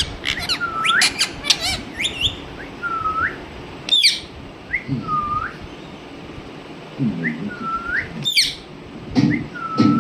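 Pet parrot whistling: a string of short whistles, each dipping and then sliding up, with a couple of sharp rising squeaks and some low throaty chatter between them.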